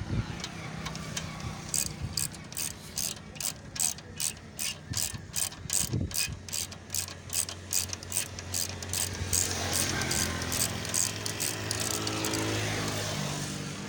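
Ratchet wrench clicking in a steady run of about three or four clicks a second as bolts on a 70cc motorcycle engine are undone, with a low steady hum underneath in the second half.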